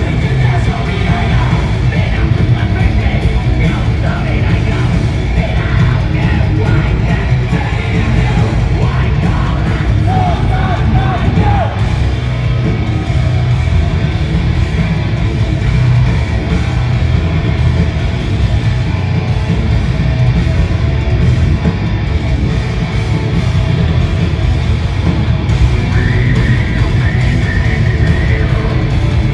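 Live heavy rock band playing loudly, with distorted guitar, a heavy low end and yelled vocals, heard from within a festival crowd.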